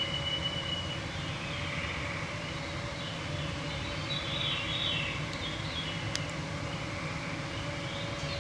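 Boreal forest evening ambience: a steady mosquito whine under songbirds singing, with a held whistled note in the first second and a descending series of notes around the middle.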